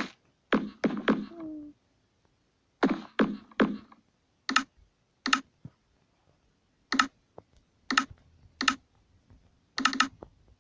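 Sharp clicks and taps, some in quick runs of three or four and others single, about a second apart.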